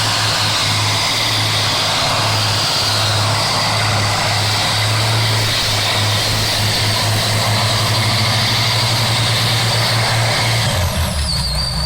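Pulling tractor's engine running loud and steady under full throttle, its note dropping lower about eleven seconds in as it comes off the power, with a thin high whine near the end.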